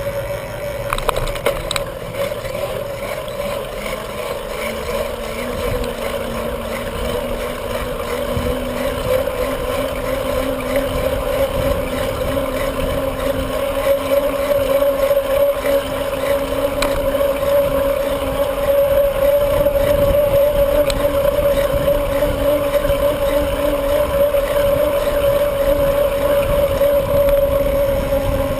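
Steady whir of a bicycle in motion, tyres rolling with wind on the rider's camera microphone, growing somewhat louder about halfway through.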